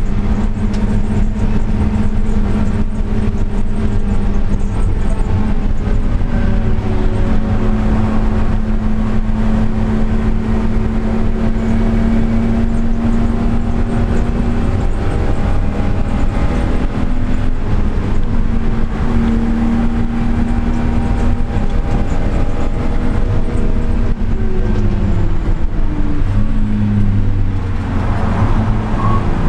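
Car engine and exhaust running hard at high revs during a fast lap. The pitch holds fairly steady with slow rises and dips, drops away about 25 seconds in as the car slows, then starts climbing again near the end.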